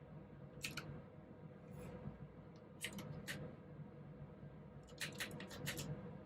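Typing on a mechanical keyboard with clicky blue switches, in short sparse bursts: a couple of keystrokes about half a second in, three more around three seconds, and a quick run of about eight near the end, over a faint steady hum.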